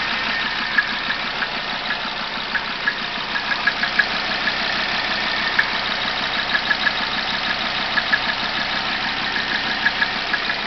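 Turbo diesel engine of a Mazda B2600i pickup idling steadily, chugging away with a sharp ticking diesel clatter. It is running evenly on its first start after a head gasket replacement.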